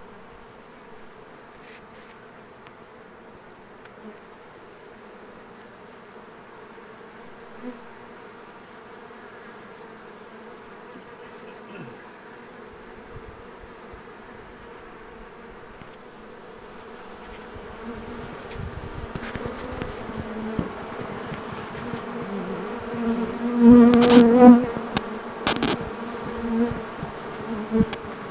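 Honey bee swarm buzzing steadily around the entrance of a hive box. The buzz grows louder in the second half, with a few loud, close buzzes near the end.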